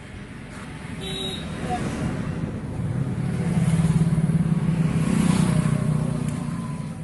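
Hand-tractor diesel engine of a village-made truck chugging as it drives past, growing louder to a peak about four to six seconds in, then fading.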